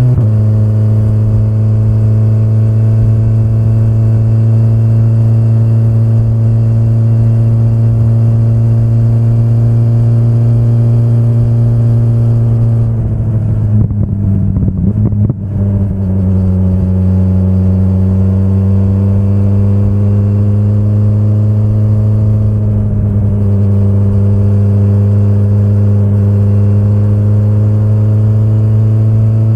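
2025 BMW S1000RR's inline-four engine running at a steady, moderate speed while riding. About halfway through the note goes rough and unsteady for a couple of seconds, then settles a little lower and slowly climbs again.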